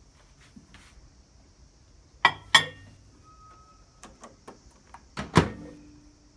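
Microwave oven being worked: two sharp clacks of the door, a short beep, a few light clicks of the buttons, then a loud thunk followed by a low steady hum as it starts running.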